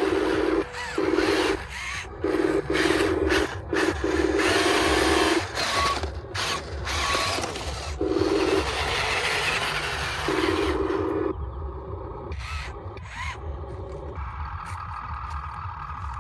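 Geared electric motors of a radio-controlled toy construction vehicle whining in short bursts, starting and stopping repeatedly, with a rattle of plastic gears.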